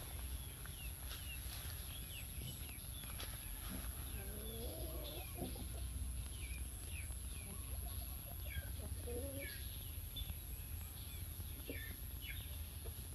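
Birds calling: short high falling chirps repeat throughout, and lower clucking calls come in about four to six seconds in and again near nine seconds, over a steady low rumble.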